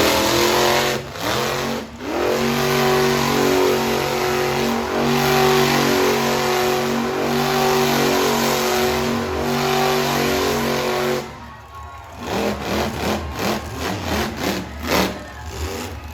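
Monster truck engine revving up and held at high revs for several seconds, then cutting off abruptly about eleven seconds in, followed by rougher, uneven engine noise.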